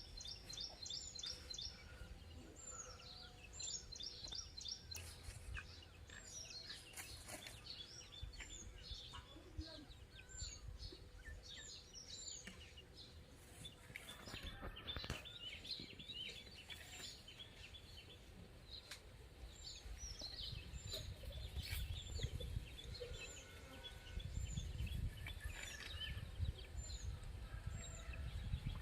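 Morning birdsong: several small birds chirping, one of them repeating a short high call about once a second. A low rumble, like wind on the microphone, grows louder in the last few seconds.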